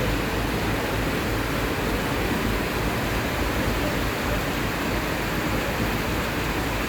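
Train running through floodwater on the track: a steady, even rushing noise with a low rumble underneath.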